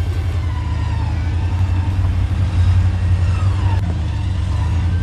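Off-road vehicle engine running steadily at low revs, with several short falling whines or squeals above it.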